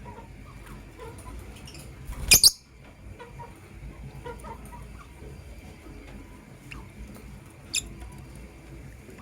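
Pair of lovebirds chattering with soft scattered chirps, with a loud shrill call about two seconds in and a shorter sharp one near the end.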